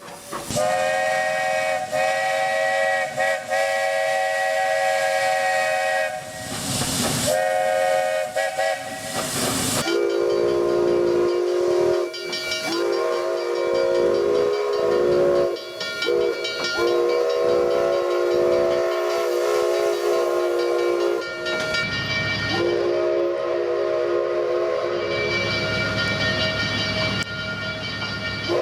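Steam locomotive chime whistles, several notes sounding together in a series of long and short blasts, with bursts of steam hiss between them. A different, lower-pitched chord takes over about ten seconds in and ends with a long blast.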